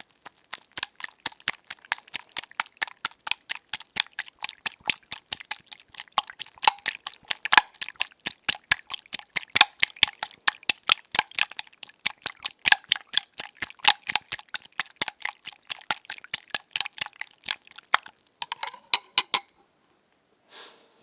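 Eggs being beaten in a bowl: a utensil clinking quickly and evenly against the bowl through the liquid, about four strokes a second. The beating stops a couple of seconds before the end, followed by one brief sound.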